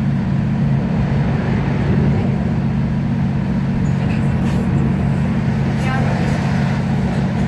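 Class 156 Super Sprinter diesel multiple unit running along the line: a steady low drone from its underfloor diesel engine, with wheel and rail noise.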